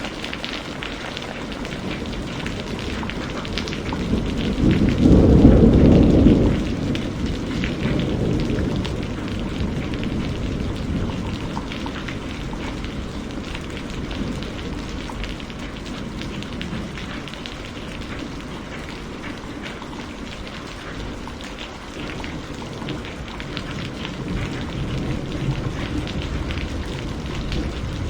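Heavy rain falling steadily, with a roll of thunder that swells about four seconds in, peaks for a couple of seconds and fades out. A weaker low rumble of thunder returns near the end.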